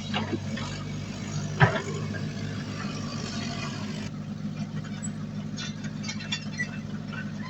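Heavy diesel earthmoving machine engine running steadily, with light rattles and one sharp metallic knock about a second and a half in.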